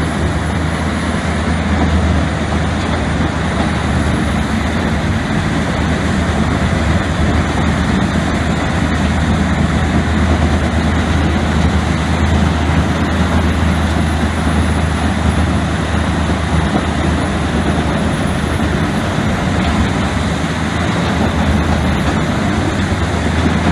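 A heavy machine's engine running steadily, with a constant low hum and a faint high whine that slowly drifts up and down in pitch.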